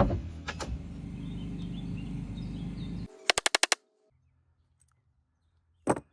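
Low, steady hum of the hydraulic spreader's power unit running, cut off abruptly about three seconds in. A rapid run of about six sharp clicks follows, then near silence and one short sharp crack near the end.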